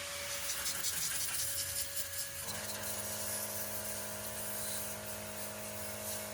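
Hiss with faint scraping, then a steady mechanical hum that starts suddenly about two and a half seconds in.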